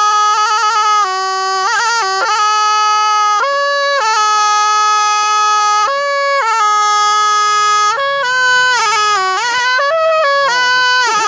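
Thai pi, a reed oboe, playing a solo melody: long held notes broken by quick trills and bending slides, with no pause for breath.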